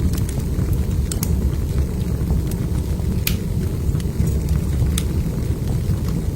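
Wood fire burning in a fireplace, with scattered sharp crackles and pops of burning logs over a steady low rumble. The loudest pops come about a second in, around three seconds in, and near five seconds.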